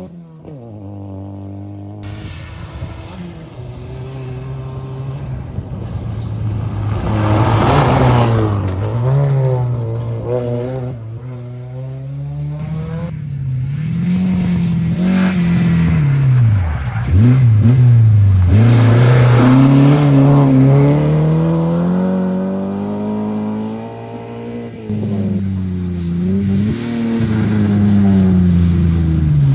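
Rally car engine on a gravel stage, accelerating hard and lifting off again and again. Its pitch climbs and drops with gear changes and corners, and it grows louder as the car approaches.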